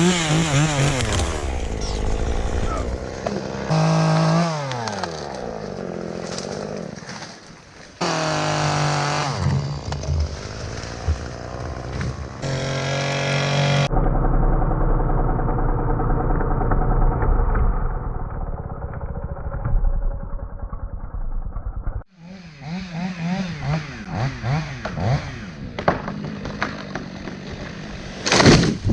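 Two-stroke chainsaw revving up and down as it cuts, its pitch rising and falling. About halfway through the sound turns suddenly to a muffled low rumble. The revving returns later, with a sharp loud knock near the end.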